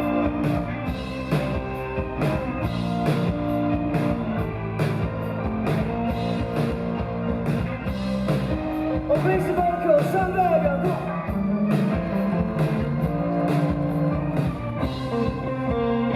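Rock band playing live: a drum kit keeps a steady beat under electric guitar, with a lead line that bends and wavers in pitch around the middle.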